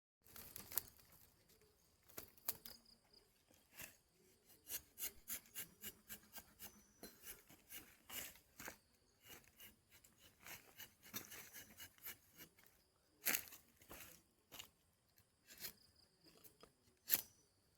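Rubber-tapping knife shaving a thin strip of bark from a rubber tree. It makes a run of short, irregular scraping cuts, several a second at times, with pauses between strokes.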